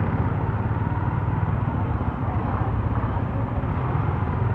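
Motorcycle engine running steadily while riding, with road and traffic noise, picked up through a phone headset microphone.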